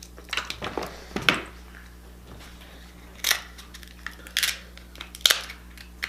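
Crab shell being cracked and broken apart by hand, a few sharp crackles about a second apart, picked up close.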